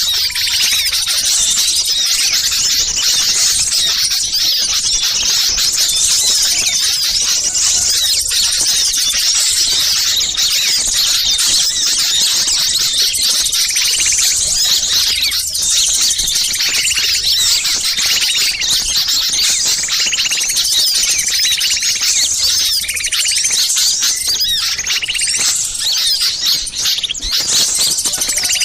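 Dense, noisy chorus of many small songbirds chirping and trilling over one another: a bird-lure recording that imitates an agitated flock, used to draw wild birds down. From about halfway through, a lower call repeats roughly every two seconds beneath the high chatter.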